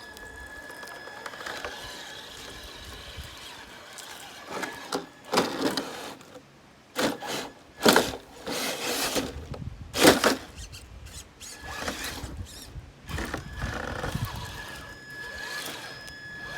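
Traxxas TRX-4 RC crawler working over river rock: a run of loud scrapes and knocks from about four to eleven seconds in, over a steady high whine.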